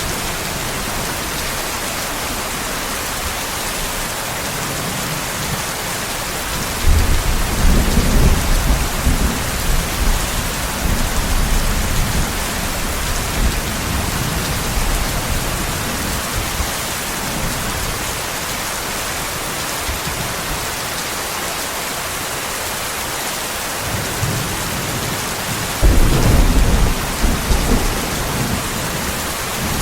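Steady heavy rain hissing throughout, with rolls of thunder: a deep rumble breaks in about seven seconds in and rolls off over several seconds, and another starts sharply near the end.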